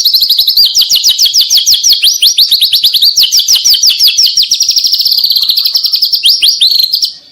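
White-rumped shama singing a 'trotol' series: a long, rapid run of sharp, repeated downward-sliding whistled notes, about eight a second, that stops abruptly near the end.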